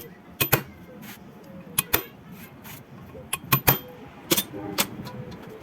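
Irregular sharp metallic clicks and clinks, about ten in a few seconds, some in quick pairs, as tools and metal parts of the fan motor are handled during the repair.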